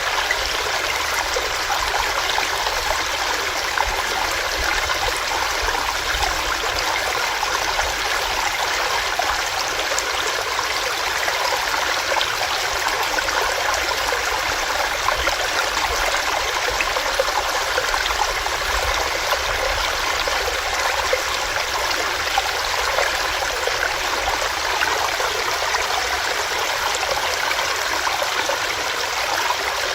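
Small rocky stream running steadily over rocks, an even rush and trickle of water with no breaks.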